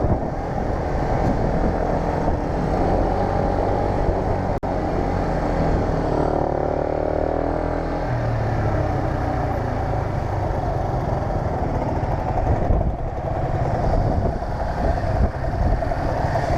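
125cc motorcycle engine running while riding, with a steady engine note that briefly dips and rises in pitch about six to eight seconds in.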